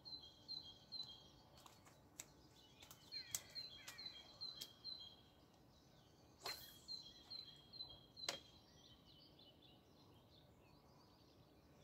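A small songbird repeating a quick two-note phrase, a high note then a slightly lower one, in runs of several, over faint outdoor ambience. A few sharp clicks and taps break in, the loudest about three and eight seconds in.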